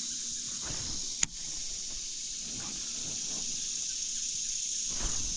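Steady high-pitched buzz of an insect chorus, with one sharp click about a second in.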